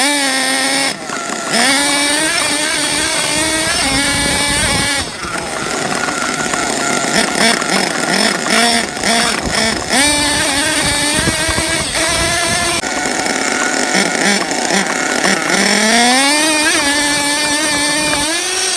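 HPI Savage X 4.6 nitro RC monster truck's small two-stroke glow engine running hard, revving up and dropping back again and again as the throttle is worked. There is a long rising rev near the end.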